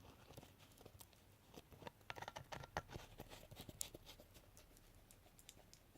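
Faint scattered clicks and light taps of plastic resin containers being handled and set down on a table, busiest in the middle.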